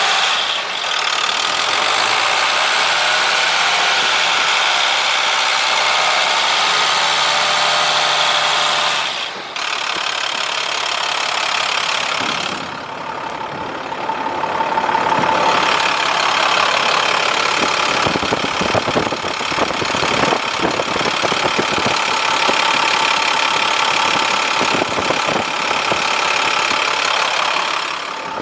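International MaxxForce DT466 diesel engine idling. The sound shifts about a third of the way in and takes on a denser clatter in the second half.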